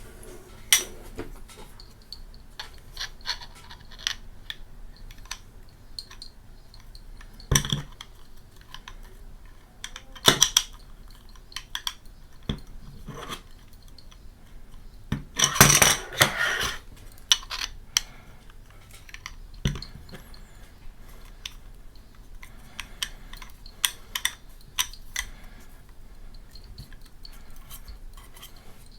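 Small hard parts of camera mount hardware being handled: scattered clicks and clinks, with a louder spell of clattering about halfway through.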